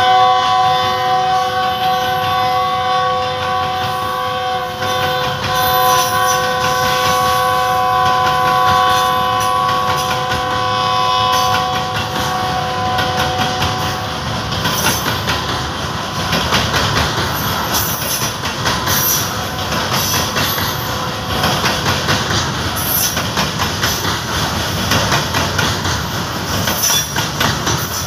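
Freight train of covered hopper wagons rolling past, its horn sounding a steady chord for about the first twelve seconds before fading. Underneath and after it, the wagons' wheels rumble and clatter over the rail joints with frequent clicks and knocks.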